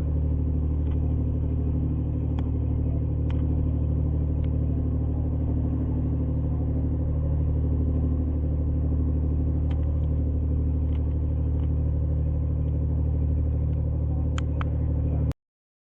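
Tour boat's engine running steadily: a low, even drone. The sound cuts off abruptly near the end.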